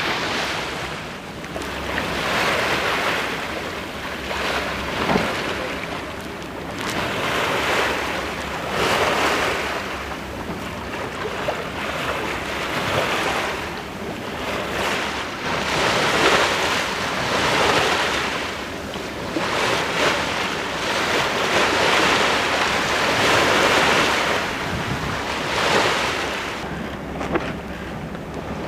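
Sea water rushing along a yacht's hull, swelling and fading every two to three seconds as the waves pass, with wind buffeting the microphone.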